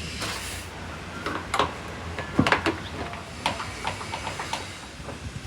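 Irregular clicks and light knocks of car parts being handled during repair work, the loudest about two and a half seconds in, after a brief hiss at the start.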